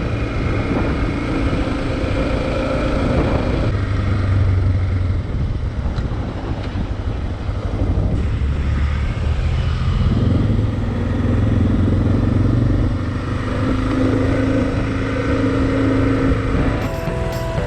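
Motorcycle engine running under way, its pitch rising and falling with the throttle. Music comes in near the end.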